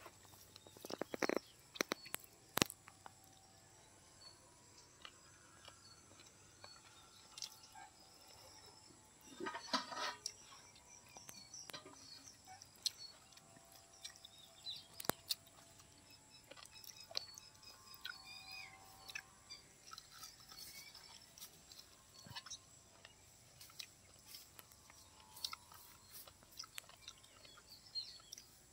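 Close-up chewing and mouth sounds of a man eating chicken curry and rice by hand, with scattered soft smacks and clicks and a louder cluster about ten seconds in.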